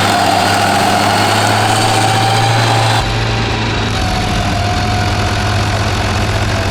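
Rayco RG55 stump grinder running steadily, a low engine hum with a whine above it. About three seconds in, the sound changes abruptly: the high hiss drops away and a deeper rumble comes in.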